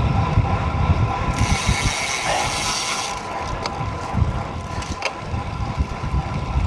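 Road bike's freewheel hub ratcheting while coasting, with a loud buzzing hiss in the first half, over steady wind rumble on the microphone.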